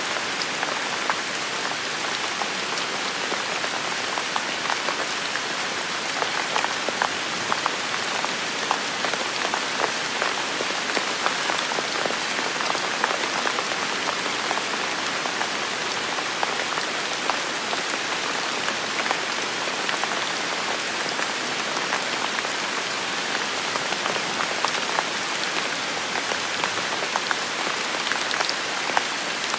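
Steady heavy rain falling in a forest, a dense even hiss with many distinct drops pattering close by.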